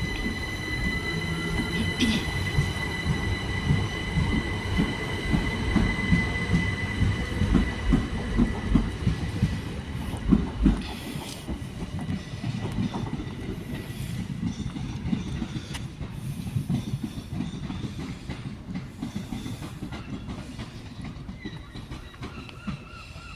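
A train moving along the platform: a low rumble with wheels knocking over rail joints and a high steady whine. It is loudest about ten seconds in, and the whine fades out after about fifteen seconds as the rumble dies away.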